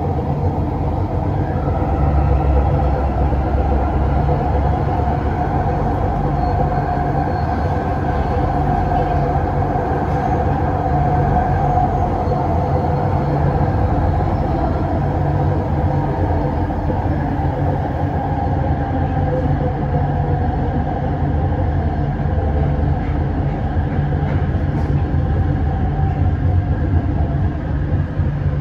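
Bombardier Innovia Metro 300 light-rail train running, heard from inside the carriage: a steady rumble of the running gear with a humming tone that holds through.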